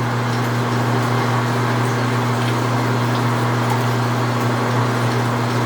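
Precision Matthews 1640 metal lathe running steadily with a constant low hum while a 2-1/2 inch drill bores into cold rolled steel.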